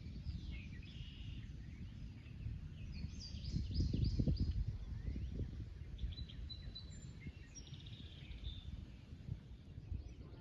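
Birds chirping and calling in short bursts over a steady low rumbling outdoor noise, which swells for a couple of seconds about four seconds in.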